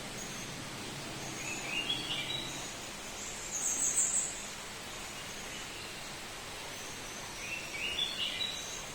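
Bird calls over a steady background hiss: a short series of notes stepping up in pitch about one and a half seconds in and again near the end, with a shriller burst of notes around four seconds.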